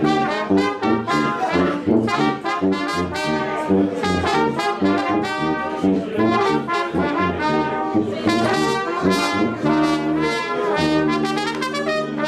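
Brass band playing a lively tune, trumpets and trombones together in quick notes, settling into longer held chords near the end.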